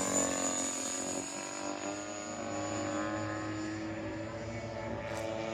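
Radio-controlled model airplane's motor and propeller, a steady drone with a thin high whine above it; the pitch edges up slightly midway.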